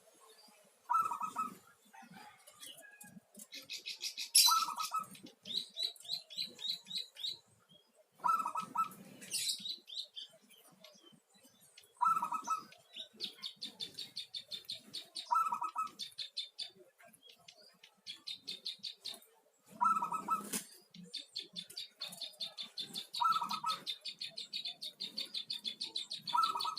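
Perkutut (zebra dove) cooing, a short call repeated about every three to four seconds, with runs of fast, high-pitched chirping from another bird in between.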